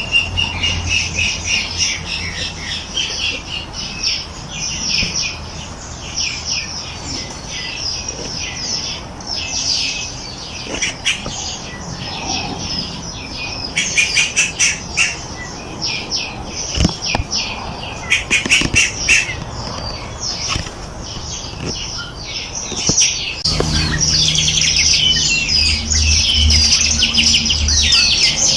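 Many small songbirds chirping and trilling together in a dense chorus, broken now and then by quick runs of sharp chips. A low steady hum comes in under the birds about three-quarters of the way through.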